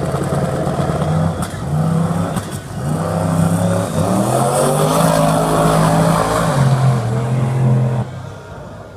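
A 1969 Camaro's twin-turbocharged big-block V8 running hard, its engine note stepping up and down in pitch several times. It falls away abruptly about eight seconds in.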